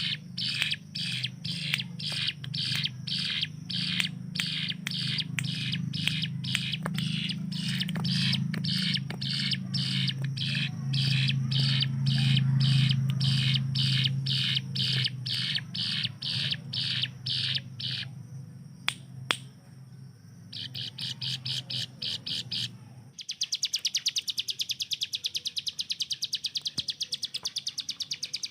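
Ciblek gunung, a prinia, singing its rapid-fire 'tembakan' song: evenly repeated sharp high notes, about three a second, then a short pause. About two-thirds of the way through it breaks into a much faster, higher rattling trill. A steady low hum runs under the song until the trill begins.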